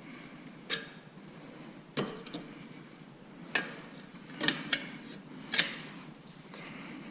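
Scattered sharp clicks and knocks, about seven at uneven intervals, from hand tools and exhaust parts being handled while fitting a motorcycle slip-on exhaust; the loudest comes a little past halfway.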